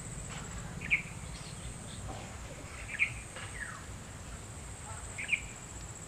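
A bird giving short, sharp calls, three loud ones about two seconds apart with fainter ones between, over a steady high-pitched insect buzz in open countryside.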